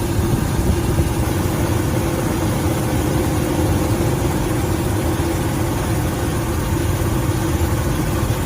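Helicopter engine and rotor running: a loud, steady drone with a constant low hum.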